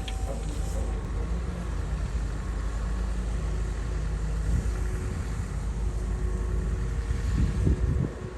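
Komatsu bulldozer's diesel engine running steadily with a low rumble, with a few louder knocks near the end.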